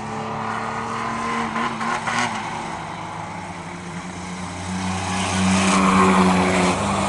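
Several racing trucks' engines running at speed on the track, more than one engine note heard at once. The sound swells to its loudest about five seconds in as the trucks come closer.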